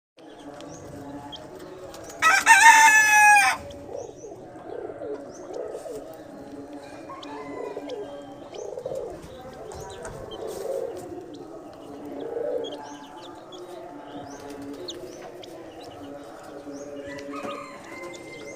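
Domestic pigeons cooing and chicks cheeping while they feed. About two seconds in, a loud crow lasting about a second and a half falls in pitch toward its end.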